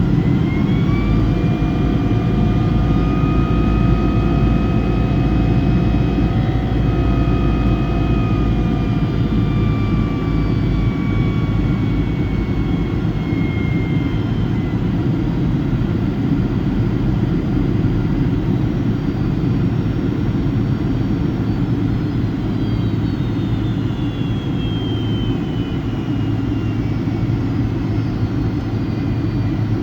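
Boeing 757-200's twin turbofan engines on approach, heard from inside the cabin: a steady low roar with a whine that rises about a second in, holds, then slides down. Later a second, higher whine falls away as the thrust changes.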